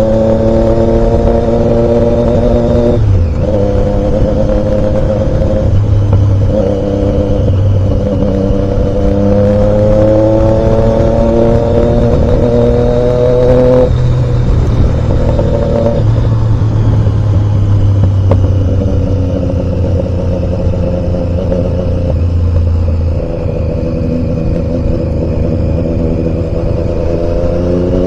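Triumph Daytona 675's inline three-cylinder engine running under way. Its pitch climbs slowly through a gear and drops at gear changes about three seconds in and near the middle, over a steady low rumble.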